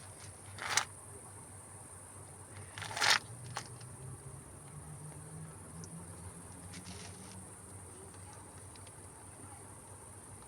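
Steady high-pitched chirring of insects, with two short noisy bursts about one and three seconds in.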